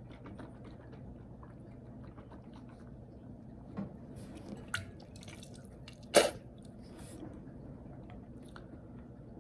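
Wet mouth noises from a person holding shampoo in the mouth: small lip and tongue smacks and clicks, with one louder, short wet smack about six seconds in.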